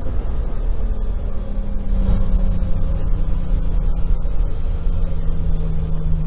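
Historic rally car's engine running steadily under way, heard from inside the cockpit over road and wind noise. The engine note eases down a little in the first few seconds, then holds level.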